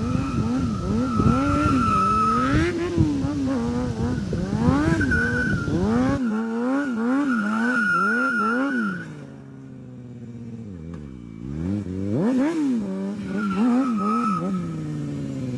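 Motorcycle engine revved in quick repeated throttle blips, its pitch rising and falling about twice a second. It eases off for a few seconds about two-thirds of the way in, revs again, then winds down near the end.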